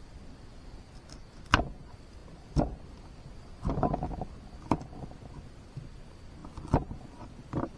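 Several separate sharp knocks and clunks, a second or two apart, with a short rustling clatter between them, over a faint steady high-pitched tone.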